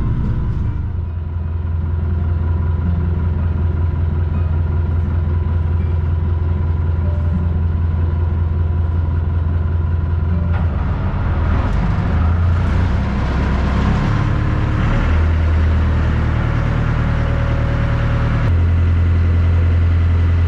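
Small ferry boat's engine running steadily with a low drone. Its note shifts a few times in the middle and steps up louder near the end.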